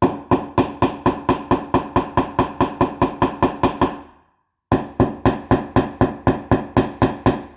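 Hammer driving popped nails back into drywall with quick, even blows, about four a second, each with a short ringing tone. The blows stop briefly about four seconds in, then a second run follows.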